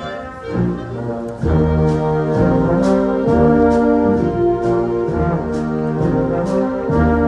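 Community concert band playing a swing-style arrangement, with brass carrying sustained chords over a steady percussion beat. The band swells louder about a second and a half in.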